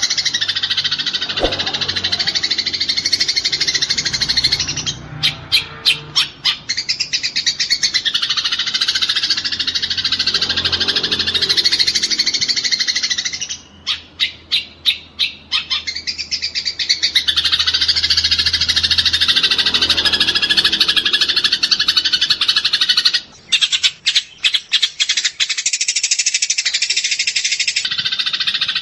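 Eurasian tree sparrows chattering in a dense, unbroken stream of high chirps, the excited calling of sparrows fighting. Three times it breaks into a run of rapid, evenly spaced chips lasting about two seconds.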